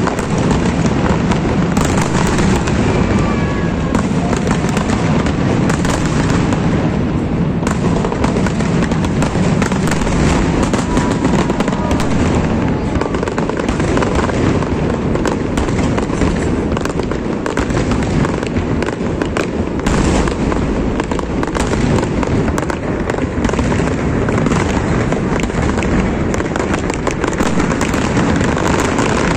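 Large fireworks display: many shells bursting in close succession, a dense, unbroken crackling and popping that stays loud throughout.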